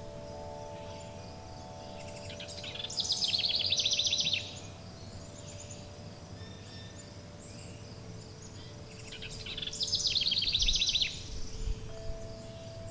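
Songbird singing two loud, rapid trills of high notes, about two and a half seconds in and again about nine and a half seconds in, each lasting roughly two seconds. Underneath, long sustained wind-chime tones ring over a steady background hiss.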